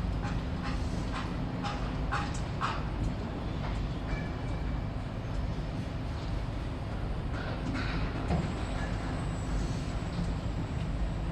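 Heavy machinery engine running with a steady low rumble. A handful of short sharp sounds come in the first three seconds and again about seven to eight seconds in.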